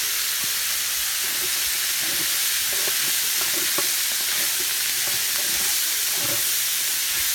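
Seafood with crab, prawns and squid sizzling steadily in oil in a large wide pan, with the scrapes and knocks of a wooden spatula stirring it.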